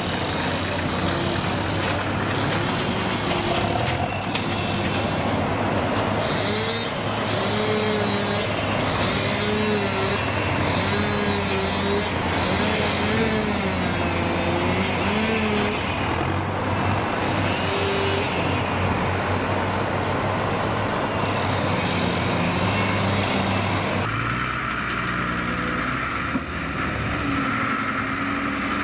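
Heavy diesel vehicle engines running steadily. Near the end, after a sudden change of sound, one engine rises in pitch as it revs up.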